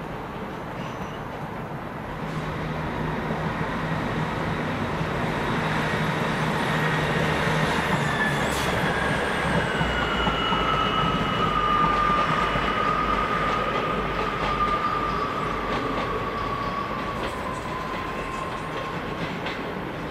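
A train moving through the station, growing louder and then fading, with a high squeal or whine that slides down in pitch through the middle and a light rattle of wheels over the rails.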